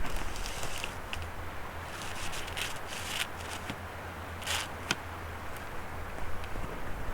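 Scattered rustling and clicking handling noises, thickest in the middle, over a low steady rumble.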